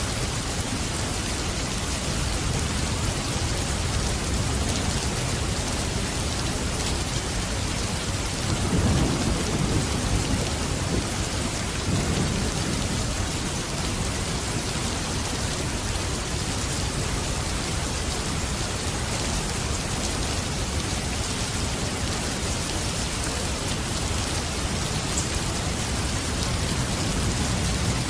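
Steady heavy rain falling, with a low rumble of thunder swelling up about a third of the way in and fading a few seconds later.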